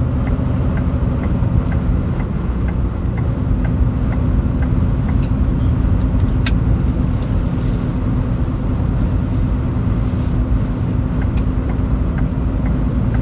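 Motor vehicle on the move: steady engine and road rumble, with faint regular ticks about twice a second and a single sharp click about six and a half seconds in.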